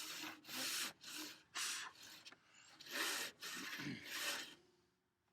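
Handsaw crosscutting a thick wooden workbench leg: a run of even back-and-forth strokes, about two a second, with a short pause partway through, stopping just before the end.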